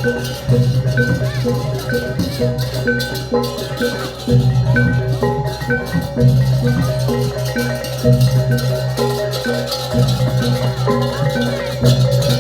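Balinese gamelan playing for a barong ngelawang: bronze metallophones and gongs beat out a fast, repeating rhythmic figure.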